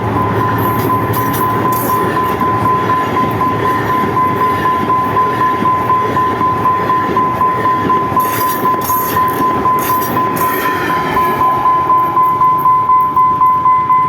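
A train passing by, its rumble accompanied by a steady high-pitched tone that pulses about two to three times a second, growing louder near the end.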